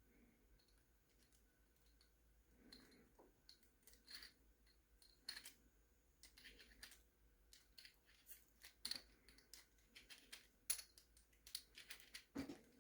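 Faint, scattered clicks and taps of small plastic RC truck parts being handled, a few a second, coming a little more often toward the end.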